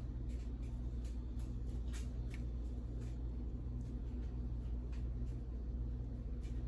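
A steady low hum, with a few faint soft taps and rustles of hands folding and closing filled corn-masa empanadas.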